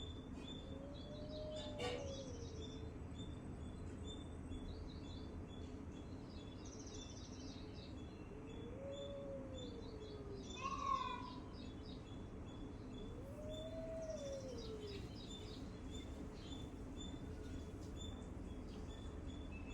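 Small birds chirping and twittering with high, quick repeated notes. Three times, a low, drawn-out call rises and falls, and near the middle one louder call falls steeply in pitch.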